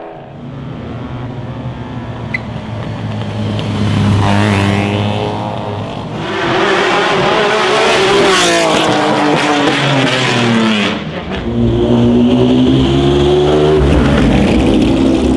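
Classic racing car's engine accelerating hard, its revs climbing and dropping back several times as it changes gear.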